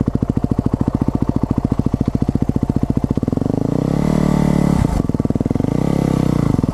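Motorcycle engine with its exhaust baffle fitted, idling with an even, fast pulse, then revved up about three seconds in, its revs rising and falling.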